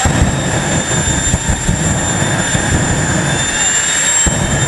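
Jet engine of a jet-powered police drag car running hard, with a steady high turbine whine over a heavy, rough rumble.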